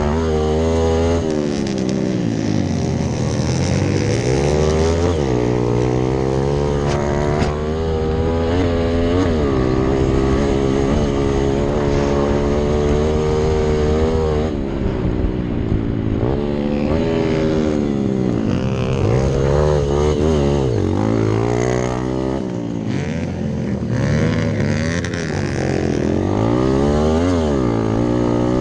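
Rally-built Hero Impulse's single-cylinder four-stroke engine under hard riding, revving up and dropping back again and again through gear changes and throttle lifts.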